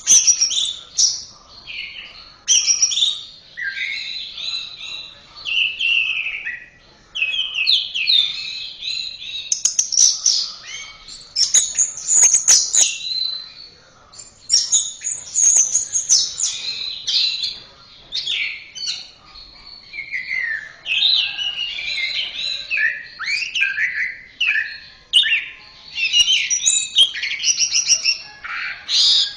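Orange-headed thrush singing a long, varied song of quick whistled and chattering phrases, broken by short pauses.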